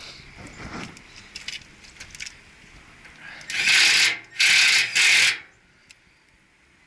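Hand tools working on the metal fasteners of a new blower motor mount: light metallic clicks and rubbing, then two loud rasping strokes, each under a second.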